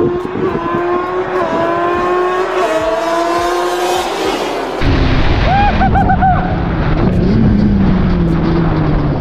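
Car engine and exhaust pulling with its pitch climbing. After an abrupt cut about five seconds in it gives way to a deeper, steadier engine drone, with a brief wavering squeal just after.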